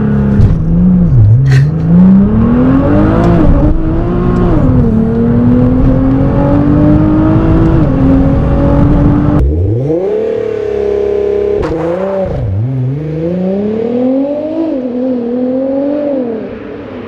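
An R35 Nissan GT-R's twin-turbo V6, heard from inside the cabin, accelerating hard on a launch, its pitch climbing and then dropping at each quick upshift. About nine and a half seconds in it lifts off and the revs are held steady for about two seconds. Then it pulls hard again through several more fast gear changes and eases off near the end.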